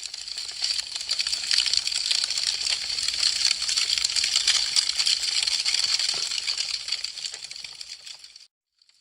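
Wood fire crackling, a dense run of small snaps and pops that swells over the first second or two. It cuts off suddenly to silence shortly before the end.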